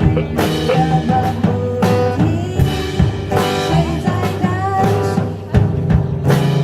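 Live band playing an instrumental break in a pop ballad: a lead solo with bending notes over a steady drum kit beat and bass.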